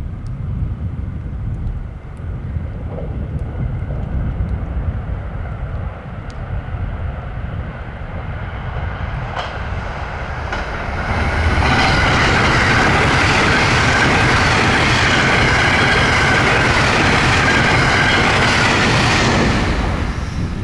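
Electric train on the JR Hokuriku Main Line approaching and passing close by at speed: a low rumble builds over the first ten seconds, then loud wheel-on-rail noise with a steady whine for about eight seconds before it starts to fade near the end.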